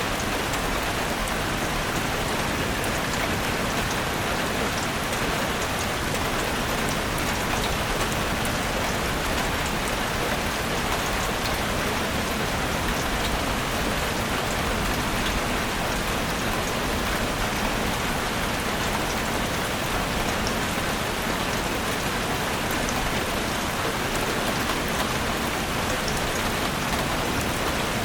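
Steady, dense rainfall in a forest, drops pattering on leaves and surfaces.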